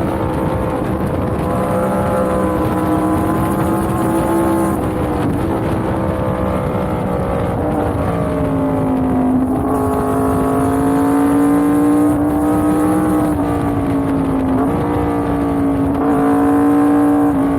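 Yamaha MT-10's crossplane inline-four engine running steadily under way, its pitch rising and falling gently with the throttle. The engine note drops about five seconds in, again near ten seconds, and falls away at the end.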